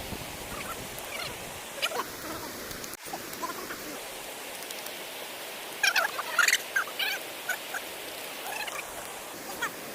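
Birds calling in short chirps, densest about six to seven seconds in, over the steady rush of a stream.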